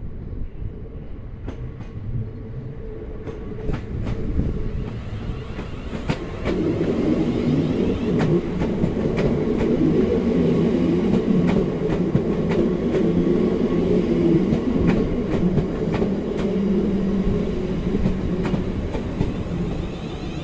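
A train running on the rails: a steady low rumble with wheels clicking over rail joints every second or so, growing louder about six seconds in.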